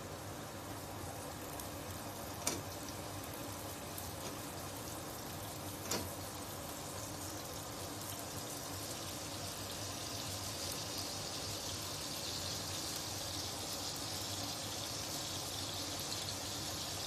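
Slices of raw pork sausage frying in oil in a black pan: a soft sizzle that grows louder and hissier from about ten seconds in as the oil heats. Two sharp clicks are heard early on, one near the start and one a few seconds later.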